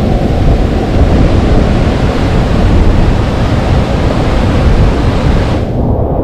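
Loud, steady rush of a waterfall heard up close, heaviest in the low range; the higher hiss drops away near the end.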